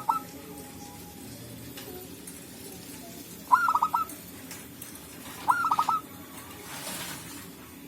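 Zebra dove (perkutut) cooing: two short phrases of quick, clipped rolling notes about two seconds apart, with the tail of another phrase at the very start. A brief hiss follows near the end.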